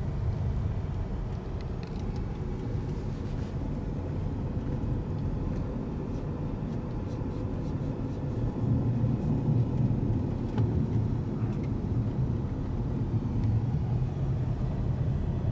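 Steady low road and engine rumble of a moving car, heard from inside the cabin, getting a little louder about nine seconds in.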